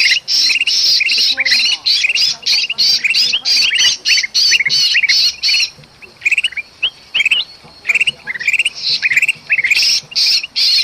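Bulbuls calling in agitated alarm, mixed with the distress calls of a trapped bulbul, as used to lure birds. Dense, rapid, harsh chattering notes thin to scattered chirps for a couple of seconds past the middle, then resume.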